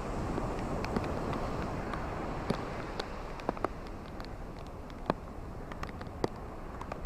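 Ocean waves washing on a beach: a steady rushing surf that swells a little early on and then eases, with scattered sharp clicks and crackles throughout.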